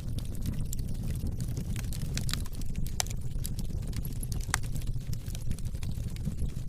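Wood fire burning in a fireplace: a steady low rumble of flames with many sharp crackles and pops from the burning logs, a couple of them louder about three and four and a half seconds in.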